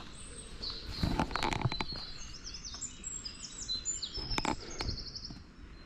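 Small songbirds singing in woodland: quick, high-pitched runs of repeated notes and trills. Footsteps crunch on the path about a second in and again past the middle.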